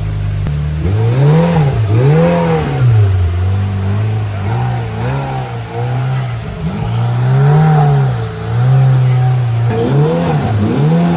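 Polaris RZR Pro R side-by-side's 2.0-litre four-cylinder engine revving up and down over and over under throttle on a steep rock climb, its pitch rising and falling in repeated swells.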